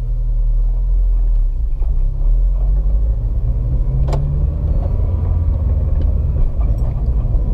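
2007 Honda Civic Si's 2.0-litre four-cylinder engine and drivetrain heard from inside the cabin while pulling away and shifting gears: steady low engine and road rumble, with the engine note changing about a second and a half in. A single sharp click sounds about four seconds in. The car is being driven to catch a creak on the first-to-second shift, which the owner suspects comes from loose motor mounts.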